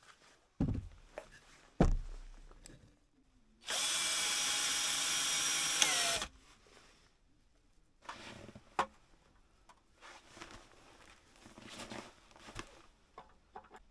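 A small electric power tool runs steadily for about two and a half seconds, then winds down in pitch as it stops. Two sharp knocks come before it, and light clicks and handling noises after it.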